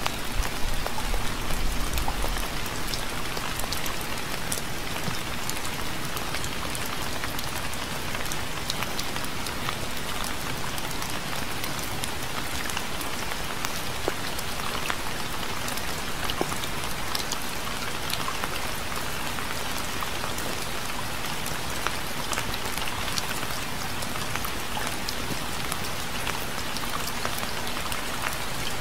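Steady rain falling on a surface, a dense even hiss dotted with individual drop ticks. A brief low rumble sits under it in the first couple of seconds.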